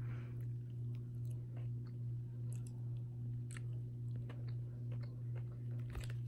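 A person chewing a soft, jelly-filled fruit gummy, with faint scattered mouth clicks, over a steady low hum.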